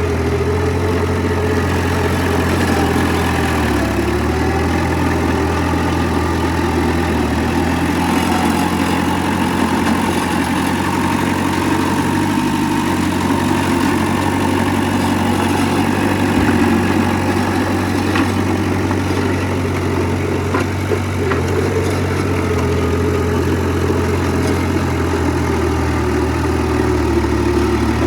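Heavy diesel engine of earthmoving machinery, a bulldozer or dump truck, running steadily at an even, low pitch.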